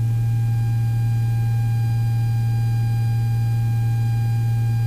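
Steady low drone of the Beechcraft Baron's twin engines and propellers in flight, with thin steady electrical whine tones over it.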